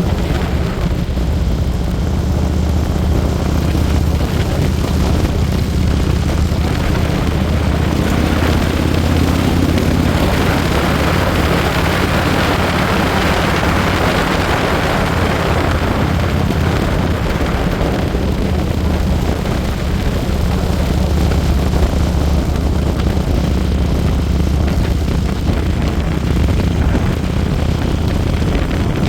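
Motorcycle engine running steadily at road speed, with wind rushing past. A hissing rush of noise swells and fades about a third of the way in.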